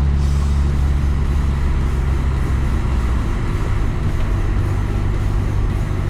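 Car driving at steady speed: a continuous low drone from the engine and tyres on the road, with a constant hiss of road noise.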